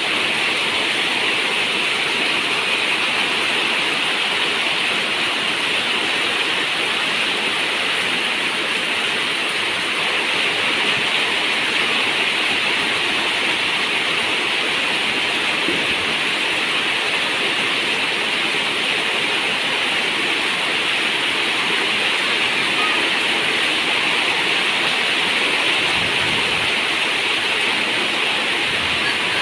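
Steady rain on a zinc roof, an even hiss with no breaks.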